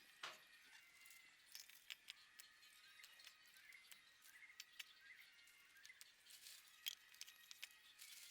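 Near silence: faint ambience with scattered light ticks and clicks, a slightly sharper tap right at the start and another near the end, and a few faint short chirps in the middle.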